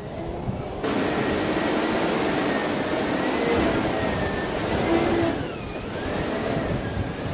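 A heavy off-road truck driving, its engine running under a dense rush of noise with a thin, wavering high whine. The sound changes abruptly about a second in.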